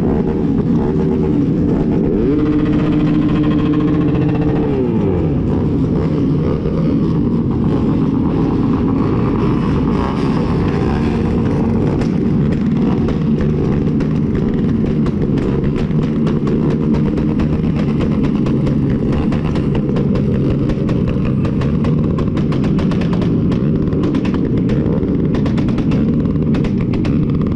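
Several motorcycle engines running and revving in heavy traffic. One engine note holds steady about two seconds in and drops away around five seconds; in the later part, rapid repeated cutting pulses sound like engines bouncing off the rev limiter.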